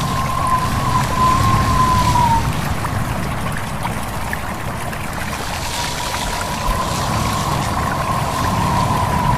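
A stream babbling and trickling under a steady rush of wind, with a thin high whistle of wind for the first couple of seconds and again from about halfway through.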